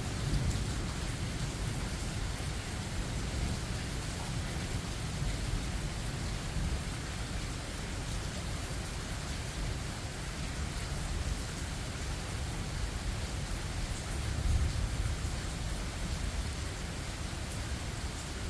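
Steady rain with low rumbles of thunder, one fading just after the start and another swelling about fourteen seconds in.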